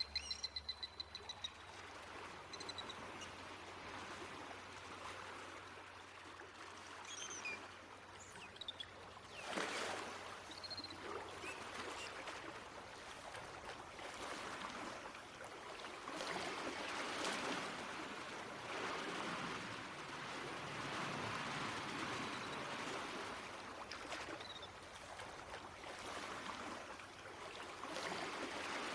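Sea water rushing and sloshing around the microphone, growing louder about ten seconds in, with a few faint, short, high dolphin whistles.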